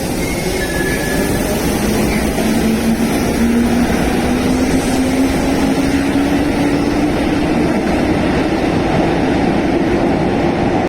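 A train pulling out of the station: a loud, steady rumble with a motor tone that rises slowly as it gathers speed.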